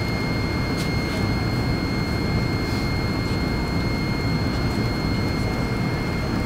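Steady cabin noise of a jet airliner in flight: engine and airflow rumble with a thin steady whine on top.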